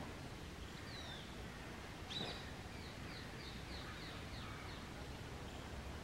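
Wild bird calls over a steady low outdoor rumble: one louder call about two seconds in, then a quick run of short, high, falling chirps at about four a second.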